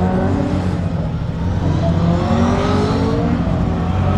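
Performance car engine running loud with a steady low exhaust rumble, its pitch rising as it revs up about halfway through.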